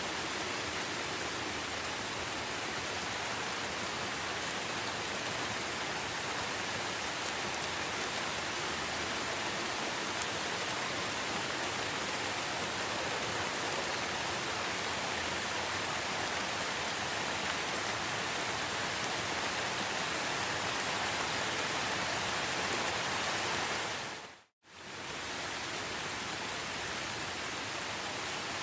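Steady rain, an even hiss, that briefly fades to silence and back about 24 seconds in.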